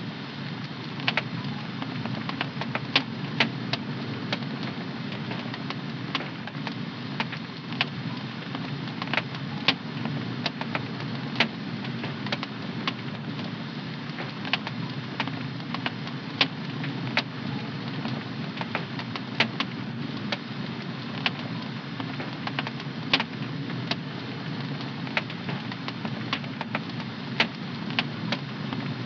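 Wood fire crackling in a home fireplace: irregular sharp pops and snaps, a few a second, over a steady low rushing noise.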